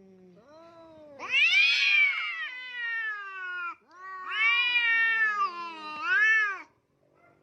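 A cat yowling: two long, drawn-out calls with wavering pitch, the second ending in a short rising-and-falling cry.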